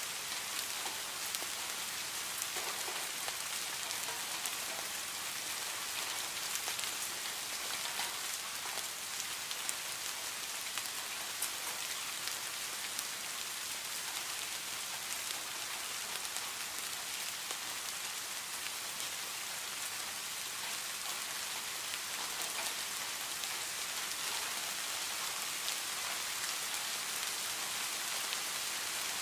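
Heavy rain falling steadily on leaves and grass: an even hiss, strongest in the high range, flecked with many sharp individual drop ticks.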